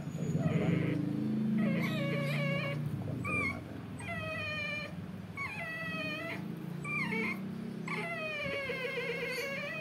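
A dog whining and crying during ear cropping in a run of high, wavering cries about a second apart, the longest near the end. A low hum runs under the first few seconds.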